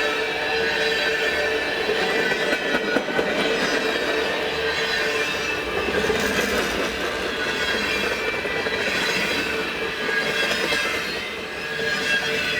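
Freight cars of a mixed manifest train rolling past on steel wheels, with a steady high wheel squeal over the rumble and some clatter over the rail joints.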